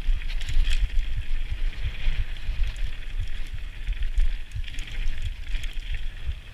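Mountain bike rolling down a dirt trail: tyres hissing over the dirt and gravel, with wind buffeting the microphone in a gusty low rumble.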